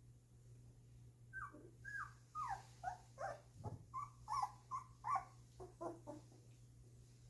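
Two-week-old golden retriever puppies whimpering: a run of about a dozen short, high cries, each falling in pitch, starting about a second in and stopping near the end.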